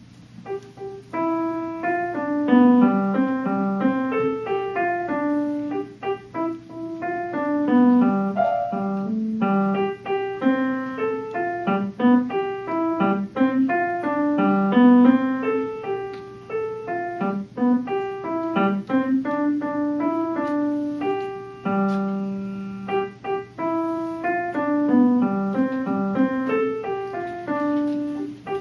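Solo piano playing a quick piece of short, detached notes over a moving bass line. It starts about a second in and carries on with only brief breaks, one held low chord near the end.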